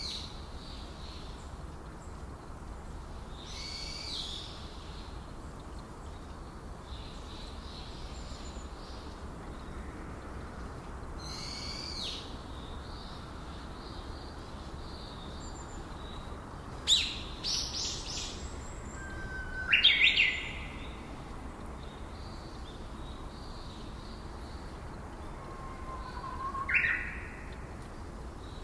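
Forest birds calling: scattered high chirps at first, then three louder calls about two thirds of the way through and near the end, two of them sweeping sharply upward in pitch. A steady hiss runs underneath.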